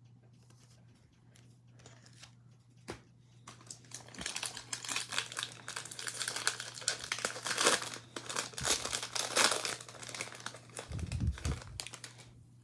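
Plastic wrapper of a trading-card pack being torn open and crinkled in the hands, starting about three and a half seconds in and going on almost to the end, with a short low thump near the end.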